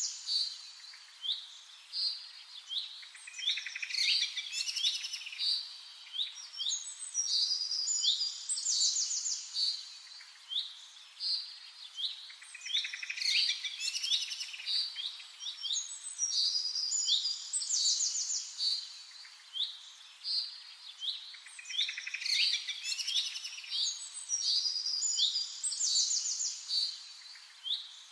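Birds chirping and singing: a busy stream of short, high chirps and trills that swells every few seconds.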